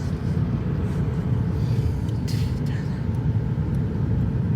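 Car driving on the road, a steady low rumble of engine and tyres heard from inside the cabin, with a short hiss about two seconds in.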